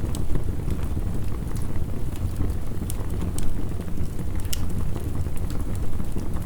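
Heavy rain mixed with a crackling wood fire: a dense, steady low rumble with scattered sharp crackles and pops, a few louder ones around three and four and a half seconds in.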